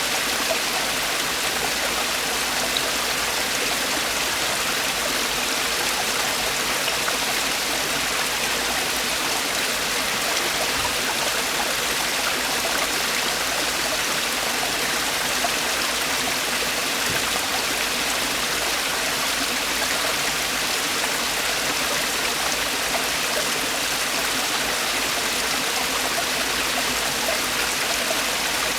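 Mountain stream water falling and rushing over rocks in a valley, a steady, even rush with no letup.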